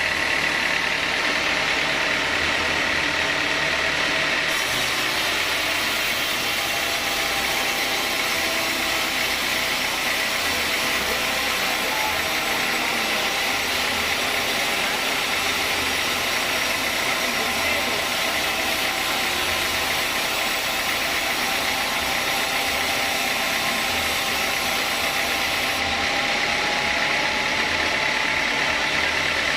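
Sawmill saw running steadily. From about four seconds in until near the end, a higher hiss is added, as the blade cuts through teak wood.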